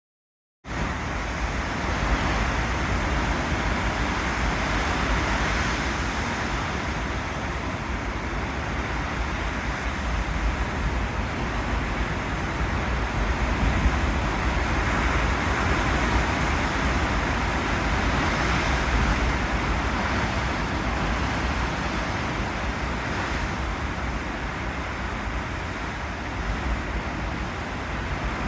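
Ocean surf, a steady rush of breaking waves with a deep rumble, swelling and easing slowly. It starts abruptly just under a second in.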